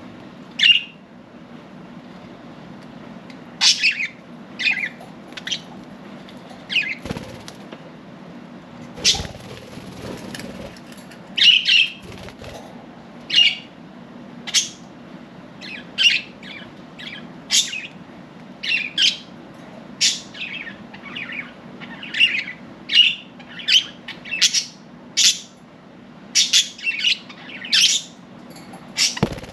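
Budgerigars chirping in short, sharp calls that come thick and fast, with a few wing flaps among them over a steady low hum.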